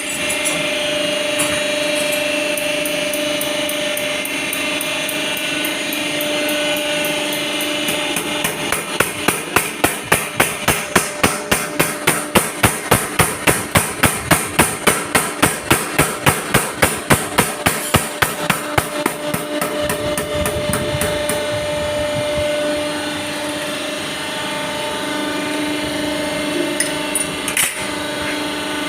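A steady machine hum throughout, with a run of rapid, evenly spaced knocks, about four a second, from about eight seconds in for about ten seconds.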